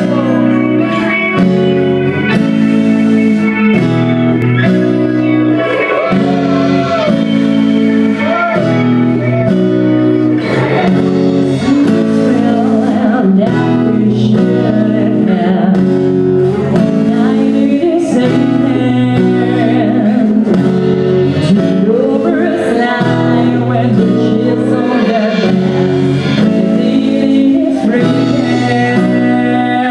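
A live band playing a song, guitar-led with a singing voice, loud and steady throughout.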